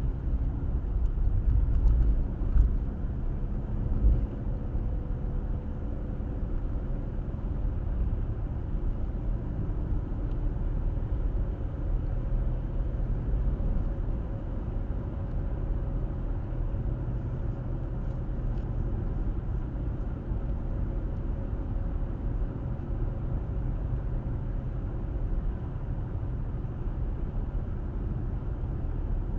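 Car driving at speed, picked up by its dashcam: a steady low rumble of road and tyre noise, with a faint steady hum. A few louder bumps come about two to four seconds in.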